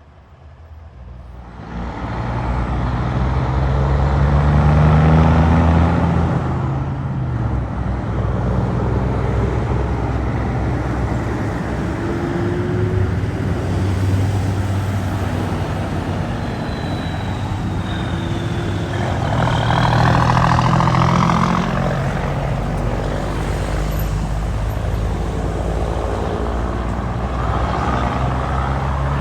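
Trucks driving past on a road: engines and tyre noise swelling as one passes about 5 seconds in and another about 20 seconds in, over steady traffic.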